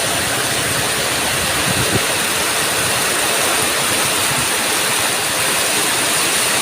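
Heavy rain pouring down in a thunderstorm, a loud, steady rushing hiss that comes up suddenly at the start.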